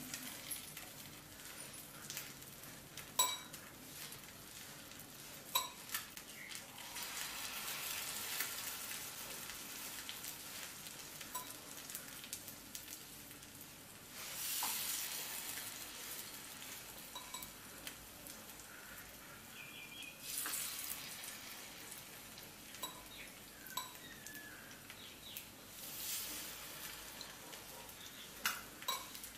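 Cornflour-battered egg pieces frying in shallow oil in a pan: a steady sizzle that swells up several times as more dipped pieces are laid in, with a few light clicks of plate and pan.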